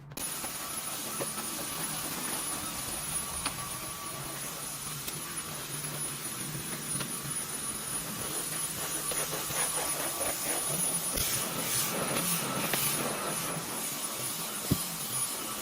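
A household electric appliance with a motor and fan, switched on and running steadily with a rushing hiss and a faint high whine.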